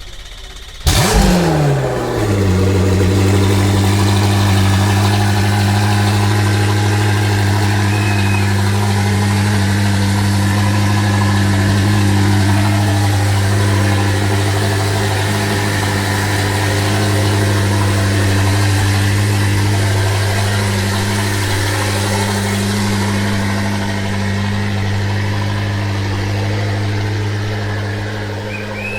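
Koenigsegg Jesko Attack's 5.0-litre twin-turbo flat-plane-crank V8 starting about a second in: it fires with a loud flare whose pitch drops quickly, then settles into a steady idle.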